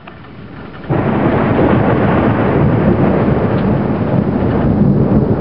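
Thunder from a passing thunderstorm: a quieter rumble, then a loud crash about a second in that rolls on steadily, with rain mixed in.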